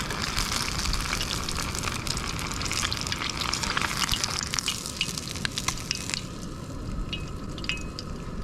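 Battered rockfish pieces deep-frying in hot oil: a dense sizzle full of small pops that thins out after about six seconds.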